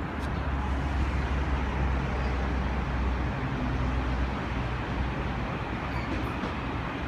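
Electric passenger train running past on the rails: a steady rumble with a low hum that eases a little about four and a half seconds in.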